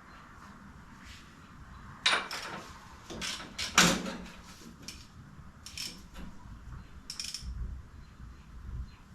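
Workshop handling noise: a few separate sharp knocks and clanks of tools or parts being moved, the loudest about four seconds in.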